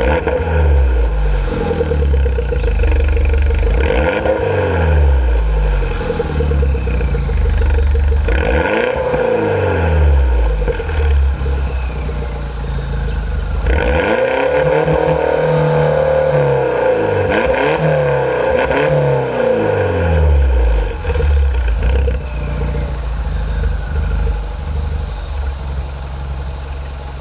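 2007 MINI Cooper S four-cylinder engine being revved repeatedly through a custom 2.5-inch Flowmaster exhaust. The revs climb, hold briefly near the top, then fall back, over and over, with one longer hold at high revs about halfway through. The engine is tuned with a rev limiter set at 4,500 rpm.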